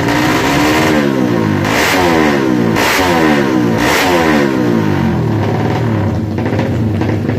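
Single-cylinder four-stroke Yamaha Jupiter MX drag bike, tuned up to 300cc, racing at full throttle down the strip, its engine pitch sweeping and falling repeatedly. Three sharp bright bursts come about a second apart in the middle.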